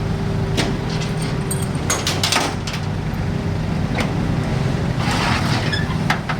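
Truck engine idling steadily, with several sharp knocks and clanks on top, including a cluster of them about two seconds in.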